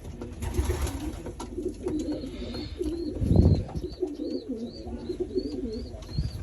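Domestic pigeons cooing in a loft, with a loud thump about three seconds in. A faint high chirp repeats a few times a second through the second half.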